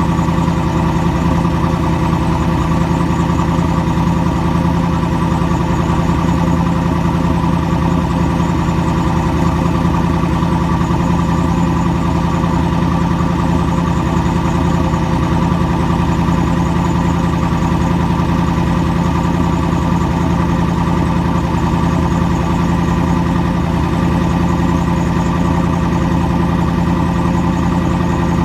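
Chevrolet 350 small-block V8 idling steadily through a Flowmaster 40 Series muffler with no catalytic converters. The engine is warm and the idle holds an even pitch with no revs.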